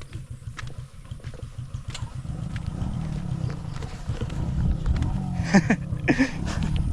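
Motorbike engine running nearby, getting louder over the first few seconds, with two short calls near the end.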